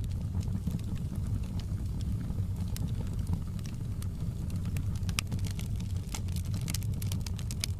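Fire in a fireplace crackling: a steady low rush of flame with scattered sharp pops and snaps, which come thicker near the end.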